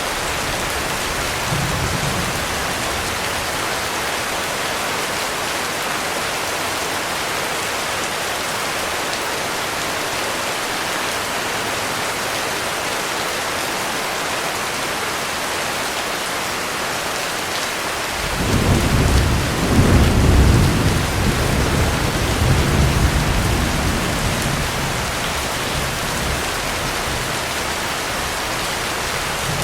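Heavy rain falling in a steady hiss. About two-thirds of the way through, a roll of thunder rumbles in, peaks and dies away over several seconds.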